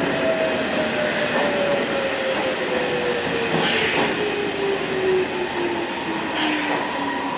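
Toyama Chiho Railway 14760 series electric train slowing down, its motor whine falling steadily in pitch over the rumble of the wheels on the rails, with a few brief hissy bursts along the way.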